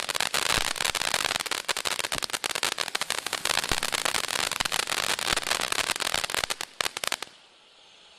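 200 g consumer firework fountain spraying, a dense rapid crackling over a steady hiss, which dies away about seven seconds in as the fountain burns out.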